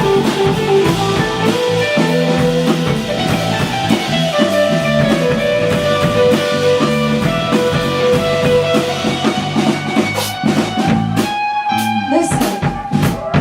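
A live band playing a rock song with guitar and drum kit. From about ten seconds in the drums break into a run of sharp hits under a held note.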